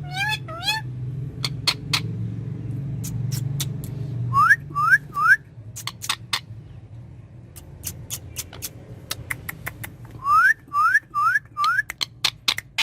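Indian ringneck parakeet calling: many short, sharp chirps with groups of rising whistles, three about four and a half seconds in and four more near the end. A low hum runs under the first few seconds.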